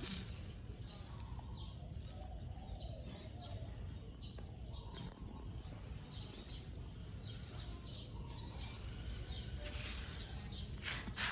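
Small birds chirping: short, high, falling chirps repeated irregularly over a steady low background rumble, with a brief burst of noise near the end.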